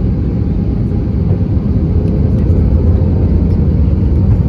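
Steady low rumble of an Airbus A320-214's CFM56 engines and airflow heard from inside the passenger cabin.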